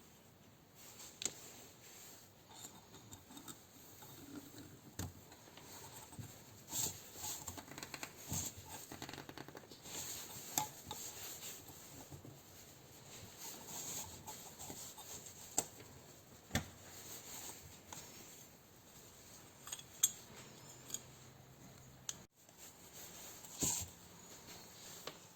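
Scattered clicks, clinks and light knocks of metal hand tools and engine parts being handled during motorcycle engine work, with the sharpest knocks near the end.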